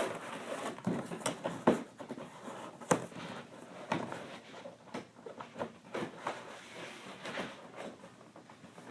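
Handling and opening a taped cardboard fireworks case: irregular knocks, scrapes and rustling of cardboard, with a few sharper knocks early on.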